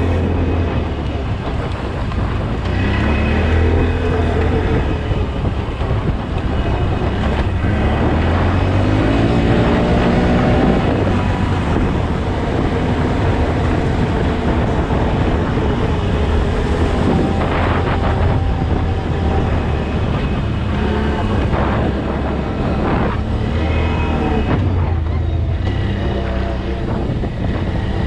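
A motor vehicle's engine running steadily, its pitch rising as it speeds up several times.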